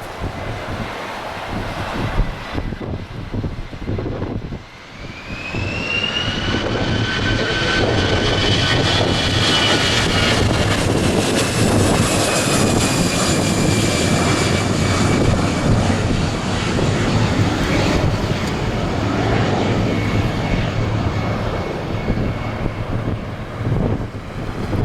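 Jet airliner flying past with its engines running. The engine whine climbs about five seconds in, then slowly falls away over the following quarter-minute under a broad rush of engine noise.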